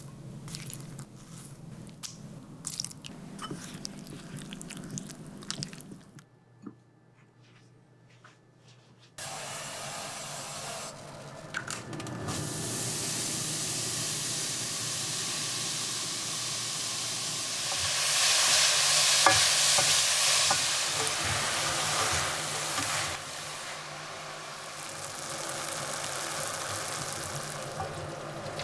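Light kitchen taps and clatter for the first few seconds, then, after a short lull, food sizzling in a hot frying pan: a steady hiss that swells loudest for several seconds past the middle, then eases off.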